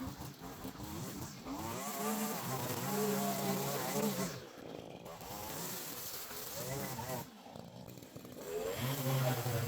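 Small handheld Stihl petrol garden-tool engine revved up under throttle in three bursts, dropping back between them, as it cuts grass and soil along a garden edge.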